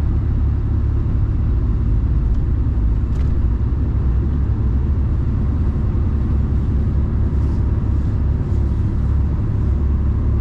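Steady low rumble of a Mercedes-Benz Actros truck's diesel engine and road noise, heard from inside the cab while driving, with a few faint light ticks.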